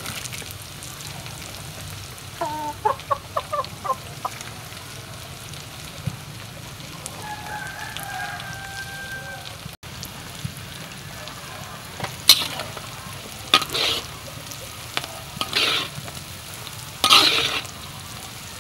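Oil sizzling steadily in a wok of frying sliced onions and chilies. A chicken clucks a few times about three seconds in and gives a longer call a little later; from about twelve seconds in, a metal spatula scrapes the wok in several loud strokes as the mixture is stirred.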